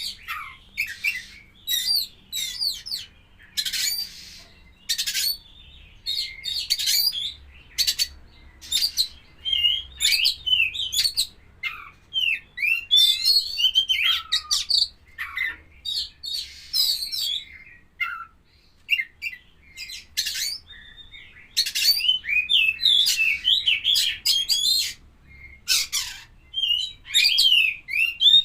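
Oriental magpie-robin (kacer poci) singing: a run of loud, varied phrases of fast rising and falling whistles mixed with sharp clicks and harsh notes, in bursts with short pauses between.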